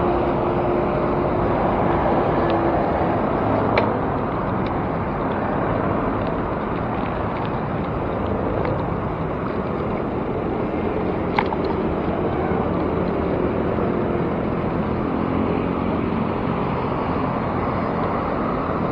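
Steady city road-traffic noise with wind on the microphone, a faint steady hum in the first couple of seconds, and two brief sharp clicks about four and eleven seconds in.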